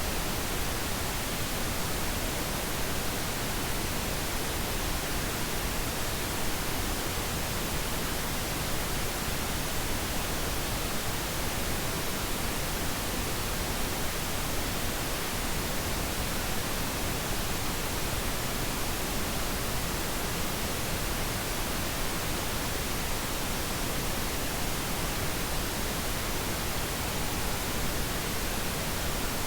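Steady pink noise: an even, unchanging hiss spread across all pitches, generated as a sleep aid.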